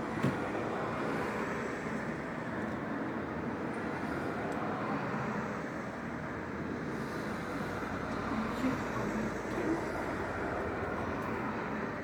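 Freight train hauled by a Class 66 diesel locomotive rolling past, making a steady rumble.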